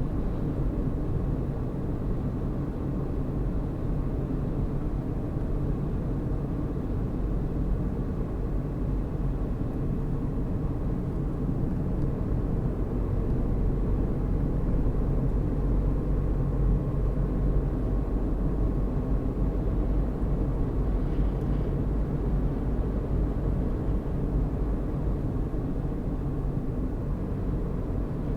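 A car driving at steady speed, with its engine and tyres making a low, even road noise that swells slightly about halfway through.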